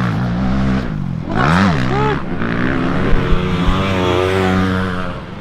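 Motocross dirt bike engine revving hard. Its pitch drops and then climbs sharply about a second and a half in, then holds high with small rises and falls as the bike is ridden.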